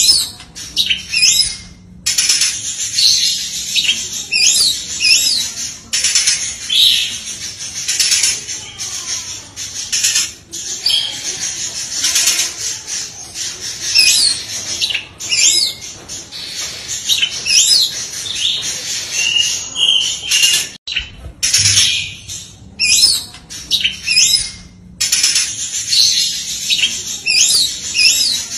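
Oriental magpie-robin (kacer) singing a fast, unbroken string of loud chirps, sweeping whistles and rattling notes in rapid-fire bursts, its song packed with fill-in phrases mimicked from other birds. A very brief break comes about three quarters of the way through.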